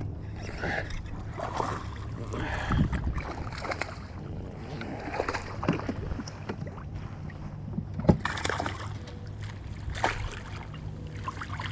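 Water splashing and sloshing around a kayak, with irregular knocks and clicks on the hull, while a hooked bass is brought in.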